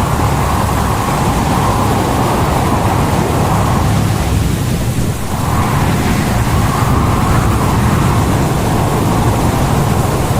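Storm wind and heavy seas battering a ship: a loud, continuous rush with a low rumble and a wavering whistle that drops away briefly about halfway through.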